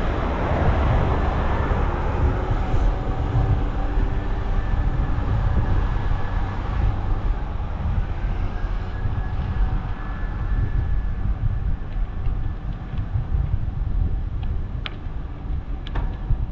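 Steady low rumble of wind on the microphone mixed with road traffic, with a few faint clicks near the end.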